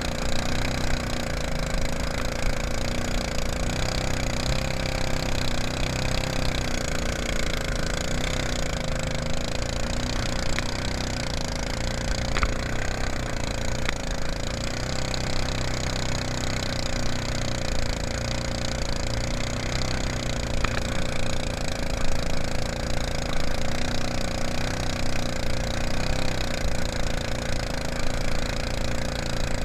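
Mud Buddy long-tail mud motor running steadily under way, its pitch rising and falling slightly.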